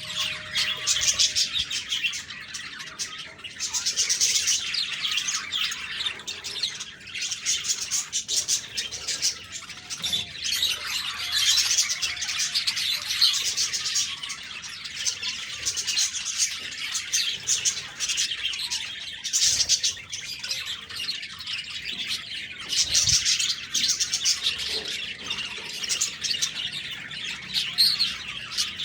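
A group of budgerigars chirping and chattering in a steady, busy flock chorus of fast, high twitters and occasional squawks.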